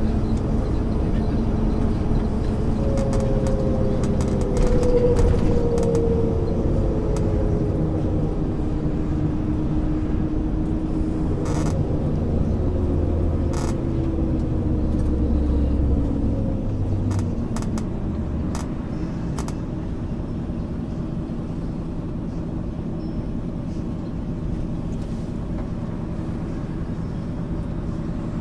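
Diesel engine and drivetrain of a 1999 MAN ÜL 353 intercity bus running under way, a steady low drone with a whine that rises, then falls in pitch. After about 17 seconds the drone eases off and runs quieter.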